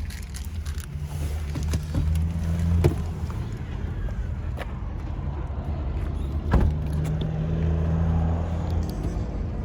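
Ford F-150 pickup driving, heard from inside the cab: a steady low drone of engine and road noise, with two sharp knocks, about three seconds in and again about six and a half seconds in.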